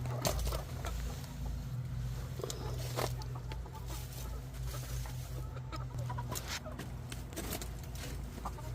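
Backyard hens clucking, with scattered sharp clicks and knocks over a steady low hum.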